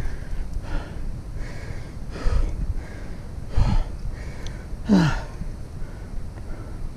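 Cyclist breathing hard, out of breath after a hill climb: a string of heavy, breathy exhales about a second apart, with one voiced sigh about five seconds in, over a low rumble from the riding.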